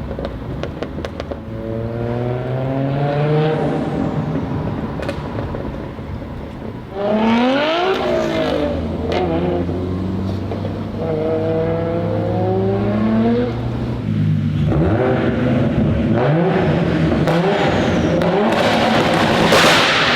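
Nissan Skyline R33's built RB25DET turbocharged straight-six revving hard and accelerating, its pitch climbing several times as it pulls through the revs, with a quick run of sharp pops near the start and the loudest pull near the end.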